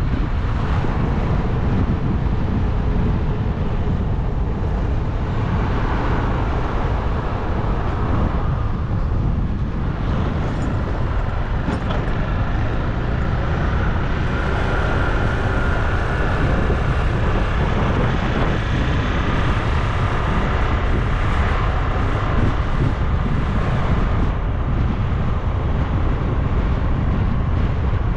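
Steady wind rush on the microphone and road noise from riding a bike along a road, with a faint steady whine in the middle.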